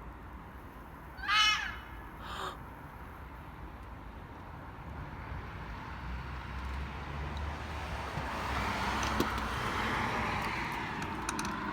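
An animal's loud, high scream-like call about a second in, one shrill cry with a rise and fall in pitch, followed a second later by a fainter, shorter one. Through the second half a rushing vehicle noise swells and then eases.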